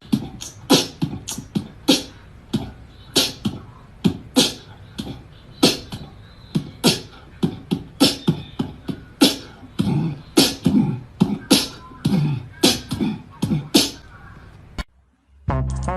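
A long series of sharp taps or clicks, roughly two a second and unevenly spaced, stopping abruptly near the end.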